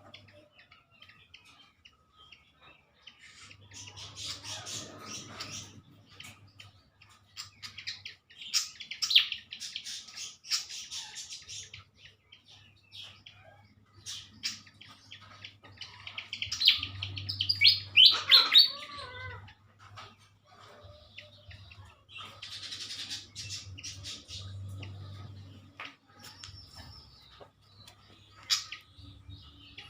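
Malaysian pied fantails (sikatan kipas) calling in bouts of quick, squeaky chirping notes, loudest about two-thirds of the way through.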